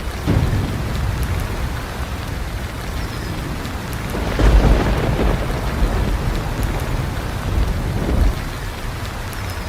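Steady rain with low rolling thunder, the rumble swelling about half a second in, loudest around the middle, and again near the end.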